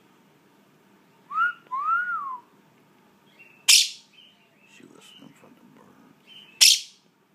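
Quaker parrot calling: two short whistled notes that rise and fall, some soft chatter, then two loud, harsh squawks about three seconds apart.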